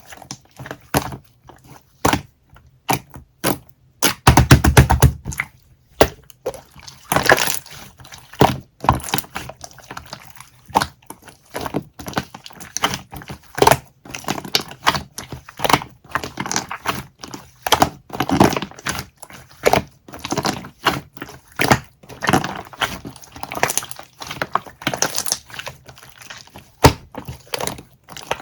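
Irregular crisp clicking and crackling, many small sharp snaps in quick succession, with a heavier, denser stretch of crackling about four seconds in.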